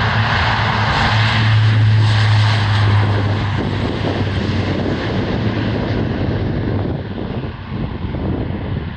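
C-130J Hercules taking off on its four Rolls-Royce AE 2100 turboprops: a loud propeller drone with a strong low hum. It is loudest in the first few seconds, then grows duller and a little quieter from about six seconds in as the aircraft moves away.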